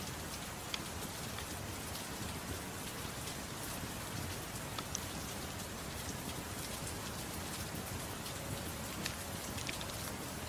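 Steady rain, an even hiss of falling drops, with a few scattered sharp pops from a crackling wood fire.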